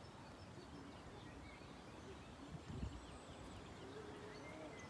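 Faint outdoor ambience with scattered bird chirps over a low, even rumble, and one low thump about three seconds in.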